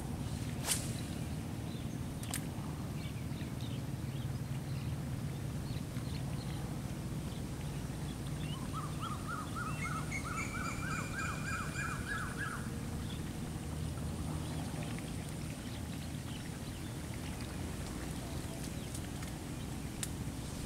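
Steady low outdoor rumble with a bird calling about nine seconds in: a quick run of short repeated notes with a held higher note over them, lasting about four seconds. Two sharp clicks in the first few seconds.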